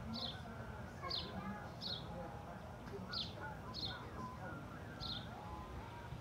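A bird calling with short, high chirps that fall in pitch, six in all, some coming in pairs, over faint distant voices.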